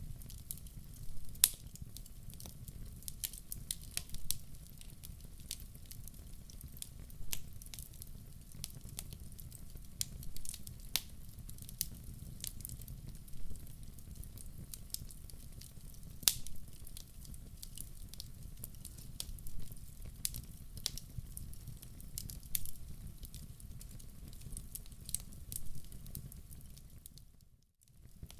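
Log fire in a fireplace crackling: irregular sharp pops and snaps over a low steady rumble. The sound drops out briefly about a second before the end.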